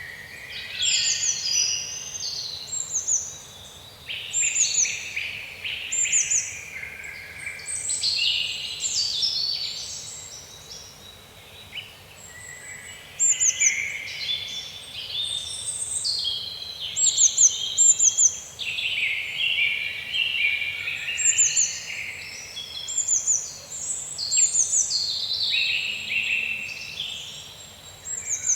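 Several songbirds singing and calling continuously, with many quick down-slurred chirps and trills overlapping, over a faint low background hiss.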